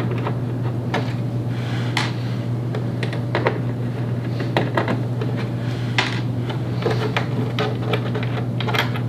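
Scattered light clicks and taps of a Phillips screwdriver backing the screws out of the back of a computer monitor, over a steady low hum.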